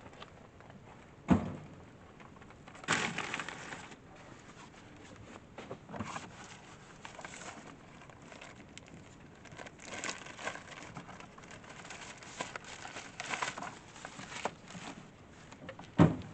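Camp gear being handled: bouts of rustling and crinkling, with two sharp knocks, one about a second in and one near the end.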